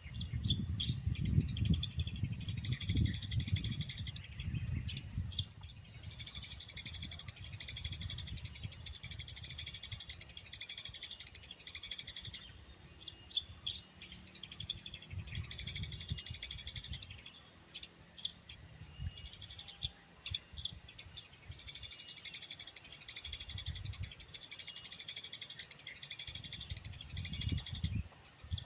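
Small birds chirping now and then over a steady, pulsing high-pitched insect drone. A low rumble comes and goes, strongest in the first few seconds and again near the end.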